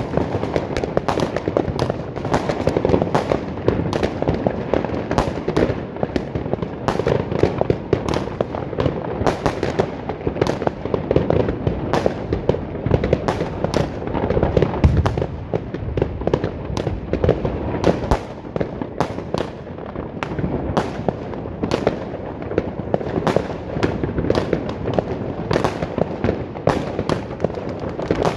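Fireworks going off without pause: many sharp bangs and crackles every second over a constant rumble of further blasts.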